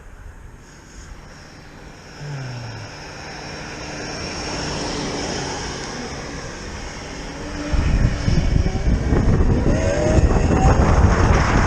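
Zero FX electric motorcycle riding along, its motor giving a thin high whine. From about eight seconds in, heavy wind buffeting on the microphone rises and becomes the loudest sound as speed picks up.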